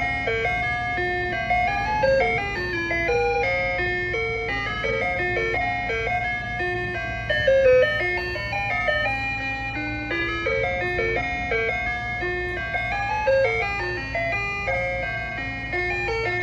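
Ice cream truck's electronic chime jingle playing a looping melody of simple beeping notes, over a steady low hum.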